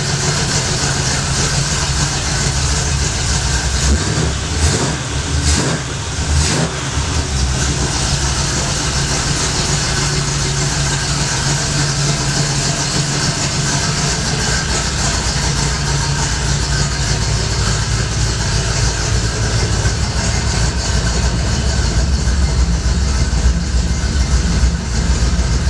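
Car engine running steadily at idle, with three short sharp sounds between about four and a half and six and a half seconds in, and a little louder near the end.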